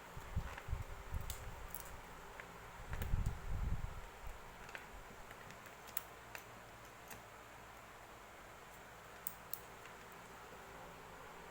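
Muffled handling bumps during the first four seconds, the loudest about three seconds in, then scattered light clicks of small hard objects.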